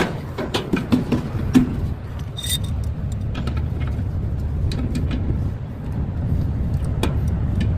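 Steady low vehicle rumble with scattered light knocks and clicks from work on a trailer's leaf-spring suspension, most of them in the first couple of seconds.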